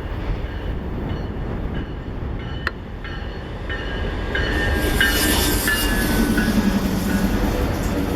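Train rolling past with a steady low rumble of wheels on rail. It grows louder about four seconds in, with a single click partway through and short high squeals of steel wheels against the rails.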